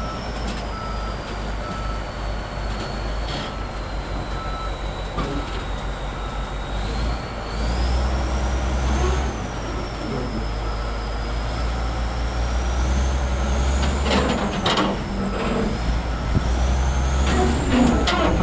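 LiuGong crawler bulldozer's diesel engine running and pulling harder in several swells as it drives off a trailer, with a repeating alarm beep and a high whine that falls and rises. Clanks come in clusters about 14 seconds in and near the end.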